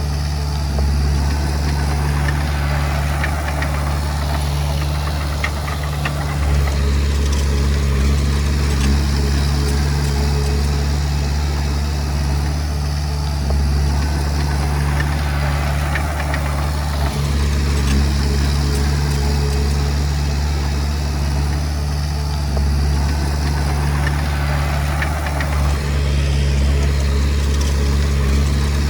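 Komatsu D20P bulldozer's diesel engine running steadily, pulling harder in stretches every few seconds as it pushes stone and soil, with faint scattered clanks.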